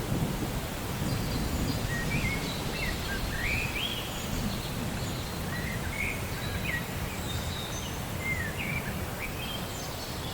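Steady rain with the last low rumble of thunder dying away in the first second or so, while a bird chirps over it in many short rising and falling notes.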